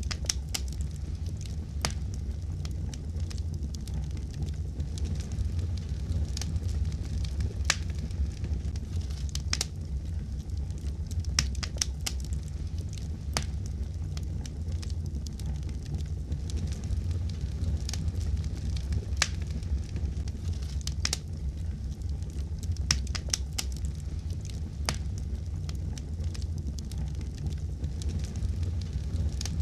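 Fireplace fire crackling: a steady low rumble of flames with frequent irregular sharp snaps and pops.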